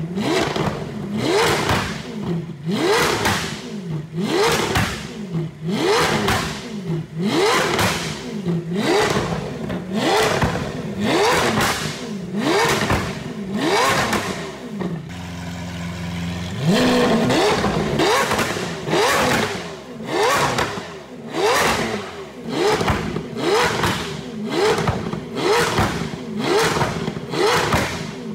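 Straight-piped V12 of a Lamborghini Aventador SV being blipped over and over at low revs, each short rev rising and breaking into exhaust pops and backfires, about every three-quarters of a second. About halfway through it drops to a steady idle for a couple of seconds, then the blipping starts again.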